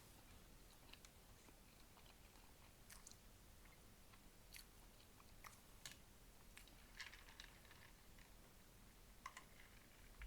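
A person chewing a mouthful of ham close to the microphone: faint, scattered mouth clicks and soft crunchy smacks every second or so.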